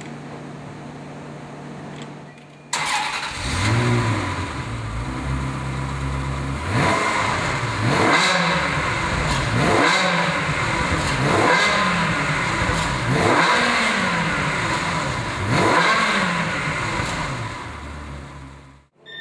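Ferrari 360 Modena's 3.6-litre V8 on its stock exhaust, starting up about three seconds in with a flare that settles to idle. It is then revved about six times in quick succession, each rev rising and falling back, and returns to idle before cutting off.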